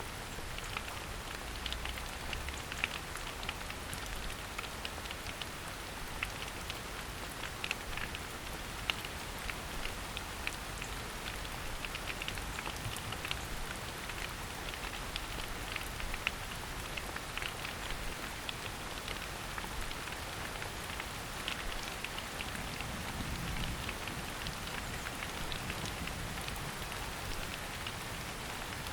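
Steady rain falling through a forest canopy, with many separate drops pattering on leaves.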